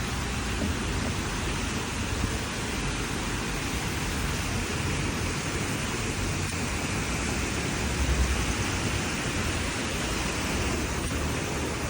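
Steady wash of distant street and traffic noise heard through a window, with a low rumble swelling briefly about eight seconds in.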